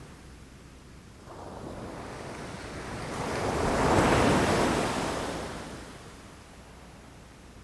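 Ocean waves breaking against rocks: one wave surges in from about a second in, peaks around four seconds and washes back, fading away by about six seconds.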